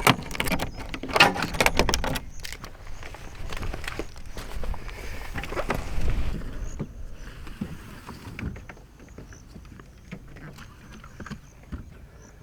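Camping gear being handled: clinks and knocks, busiest and loudest in the first two seconds, then sparse faint clicks. From about halfway on, faint high chirps repeat in the background.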